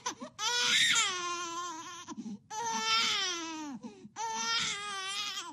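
Infant crying: three long, high-pitched wails, each dropping in pitch at its end, with short catches of breath between them.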